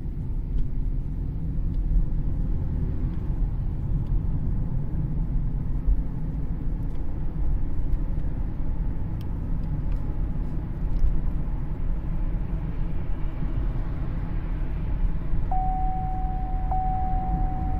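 Steady low road and drivetrain rumble inside the cabin of a 2013 Cadillac CTS driving after a differential repair, with no driveshaft noise standing out. Near the end a steady high electronic tone starts and keeps going.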